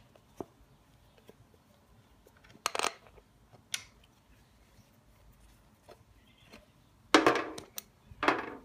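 Metal engine parts being handled: scattered light clicks, one short clattering scrape about three seconds in, and two louder short clatters near the end.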